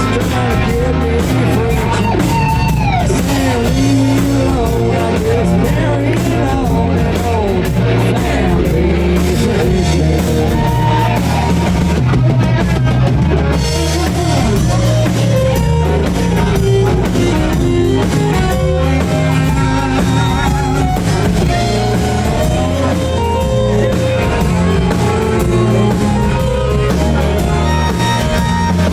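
Rock band playing: drum kit, electric guitar and bass, with a singing voice over them.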